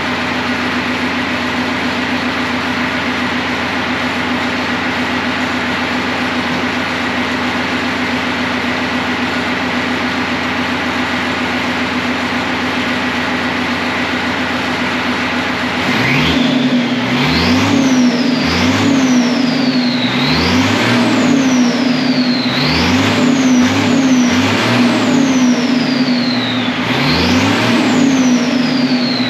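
Deuce-and-a-half army truck's diesel engine fitted with a Schwitzer 'Whistler' turbocharger, running with no air filter on. It idles steadily with a high, even whistle. From about halfway through it is revved repeatedly, and with each rev the turbo whistle sweeps sharply up and then glides back down.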